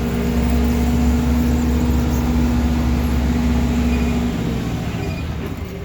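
Big construction forklift's engine running under way, heard from the driver's seat: a steady engine tone over a low rumble, which drops away about four seconds in as the machine eases off.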